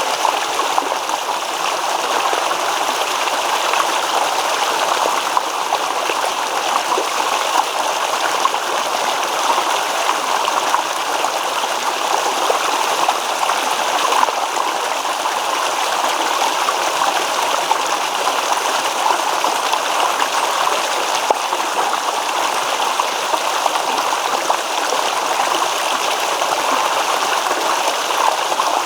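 Small stream babbling steadily over stones, a continuous rippling and gurgling of water.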